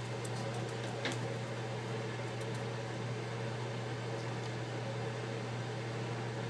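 A steady low hum, with a few faint small clicks, the clearest about a second in.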